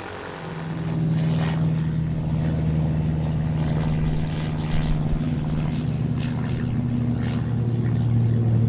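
Seaplane's propeller engine running at full power for takeoff, a steady drone over the rush of water spray. It grows louder about a second in, and its pitch drops lower near the end.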